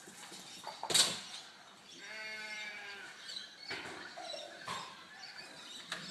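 An animal's single drawn-out call lasting about a second, two seconds in, after a loud sudden clatter about a second in.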